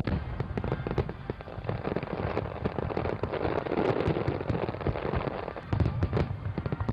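Aerial fireworks display: shells bursting one after another in a dense run of sharp bangs and crackles over a steady low rumble, heaviest about halfway through.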